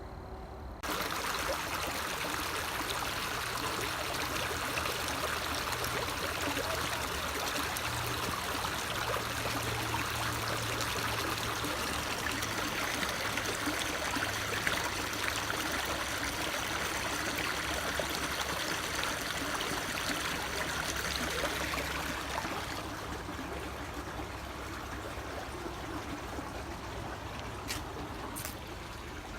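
Creek water running over rocks: a steady rushing that comes in suddenly about a second in and eases to a lower level about two-thirds of the way through.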